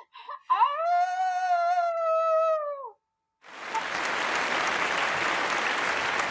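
A pug howling: a couple of short yips, then one long howl that rises, holds steady and drops away about three seconds in. After a brief silence, a steady rushing noise starts and carries on.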